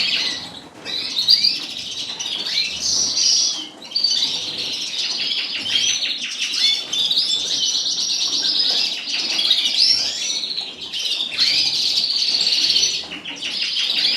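Cage birds, canaries and native finches, singing and chirping together, with many overlapping rapid trills and twitters that carry on almost without a break.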